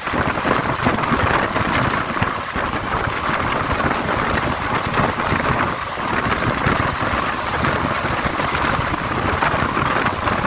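Shah Latif Express passenger train rolling past at speed, its wheels running on the rails in a steady rushing rumble.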